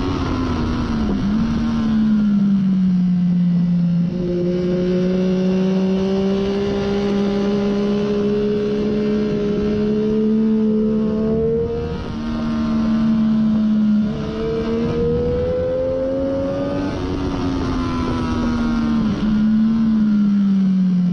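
A 2014 Triumph Daytona 675's inline three-cylinder engine through a Hindle slip-on muffler, heard on board at track speed. The revs fall at the start, climb slowly through long pulls, break off and pick up again, then fall near the end with a short blip as the bike slows.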